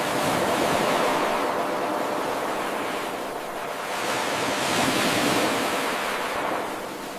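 Ocean waves washing ashore: a steady rushing noise that swells twice, easing off about halfway through and fading again near the end.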